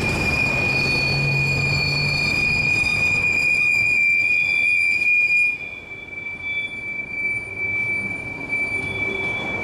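Freight train's steel wheels squealing on the rail, one steady high-pitched squeal over the rumble of passing cars. About halfway through the rumble drops away and the squeal carries on more softly.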